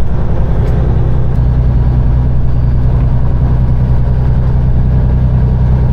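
Peterbilt 389 semi truck's diesel engine running steadily under way, a loud low drone.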